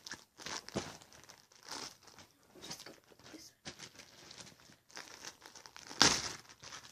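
Irregular crinkling and rustling as a stiff lump of failed homemade borax slime, neither stretchy nor squishy, is handled, with one louder crackle about six seconds in.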